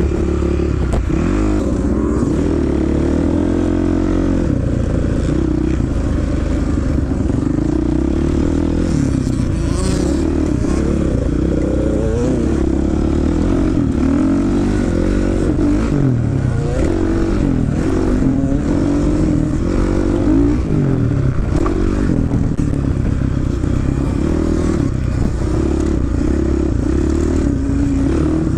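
Dirt bike engine running hard, its revs rising and falling over and over as the throttle opens and closes.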